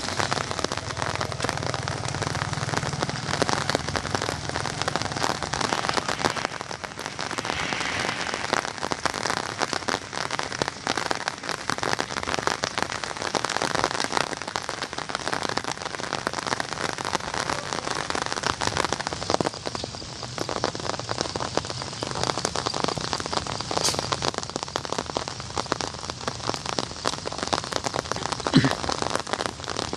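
Steady rain falling on surfaces: a dense hiss of many small drop impacts that holds even throughout.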